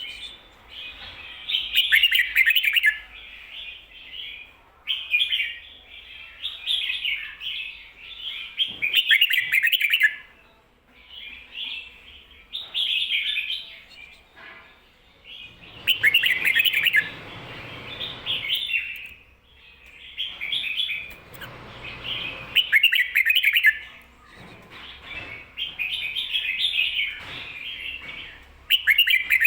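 Red-whiskered bulbul singing: short, bubbly, warbled phrases repeated every couple of seconds, in the doubled "ko-ta-ra" song type.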